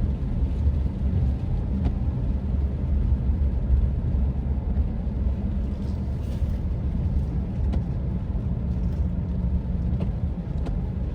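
Car cabin noise while driving slowly: a steady low engine and road rumble with a faint hiss above it and a few light clicks.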